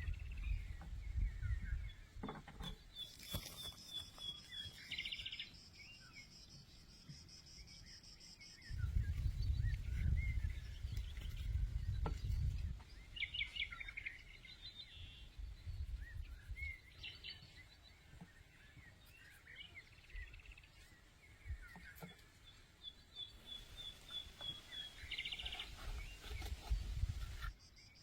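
Small birds chirping in short, repeated series of high notes, with a steady high-pitched trill for a few seconds near the start. A low rumble comes and goes through it several times.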